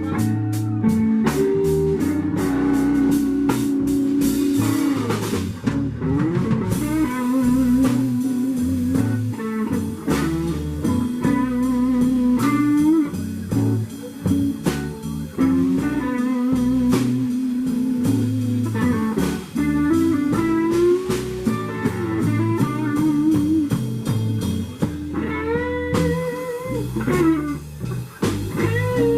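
Blues band playing an instrumental break with guitars and drum kit, a lead line of held and bending notes over a steady beat.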